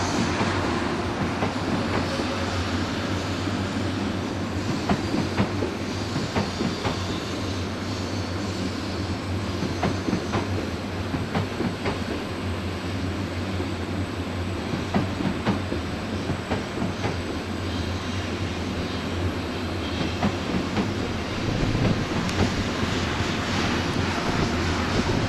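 N700S Shinkansen train rolling slowly along sharply curved depot track, its wheels clicking irregularly over rail joints and points.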